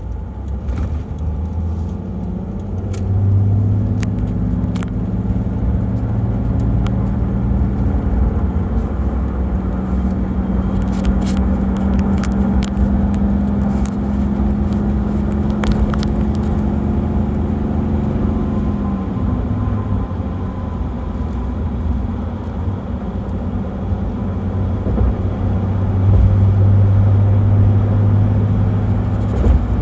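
Turbo-diesel engine of a 1995 Land Cruiser under way, a steady low drone whose pitch climbs slowly as the vehicle gathers speed, then falls away about two-thirds of the way through before settling again. A few light clicks and rattles come in around the middle.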